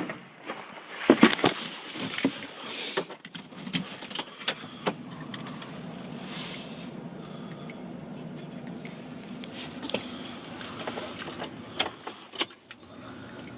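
Toyota Hiace 2.5-litre turbodiesel starting from cold at −16 °C: a few seconds of noisy, uneven sound as it cranks and catches, loudest about a second in, then a steady diesel idle.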